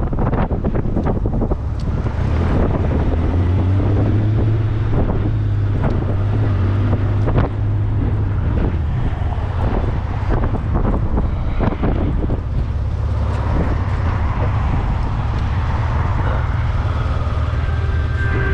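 Heavy wind buffeting on the microphone over the steady low drone of a Honda Gold Wing motorcycle's engine under way, with irregular gusts and knocks throughout.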